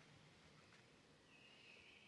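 Near silence with faint natural ambience; a faint, thin, high bird note begins a little past halfway.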